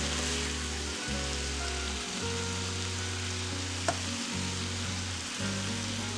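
Chicken and chopped tomatoes sizzling in a frying pan while being stirred with a wooden spoon, with one sharp tap about four seconds in. Background music with low bass notes plays underneath.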